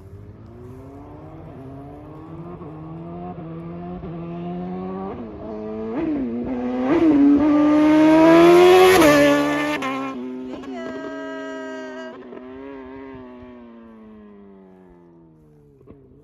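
2020 Suzuki GSX-R750 inline-four, with a flashed ECU and slip-on exhaust, accelerating past. Its pitch climbs through quick upshifts about five, six and seven seconds in and it is loudest around eight to nine seconds in. The pitch then drops and the sound fades as it moves away.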